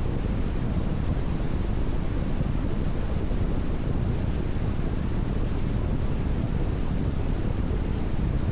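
Car driving at expressway speed on a rain-wet road: a steady rumble of tyre and wind noise with no changes or separate events.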